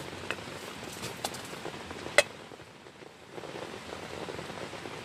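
Heavy rain falling on a tent, a steady hiss, with a few sharp clicks, the loudest about two seconds in.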